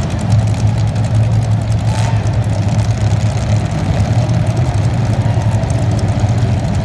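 Race vehicle's engine running at a steady pitch, an even low drone with no revving up or down.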